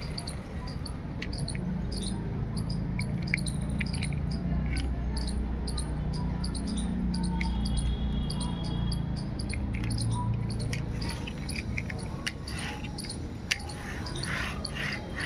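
Many short, high chirps of small birds over a low steady rumble, with a sharp click near the end.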